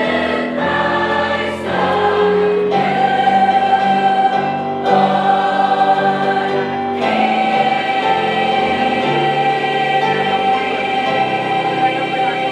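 High school choir singing a Christmas song in sustained chords, settling on one long held chord through the second half.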